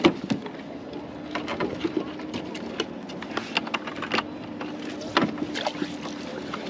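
Irregular taps, clicks and knocks of a crab and gear being handled in a plastic kayak, with a sharp knock right at the start and another about five seconds in, over a faint steady hum.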